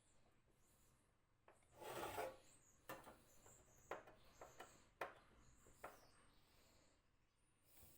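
A short scrape about two seconds in, then about six light, separate clicks and taps, and another brief scrape near the end.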